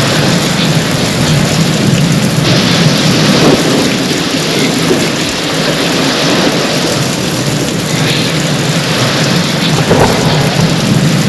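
Heavy rain pouring steadily during a thunderstorm, with a low rumble of thunder underneath. The hiss of the rain swells about two and a half seconds in, eases, and swells again near the end.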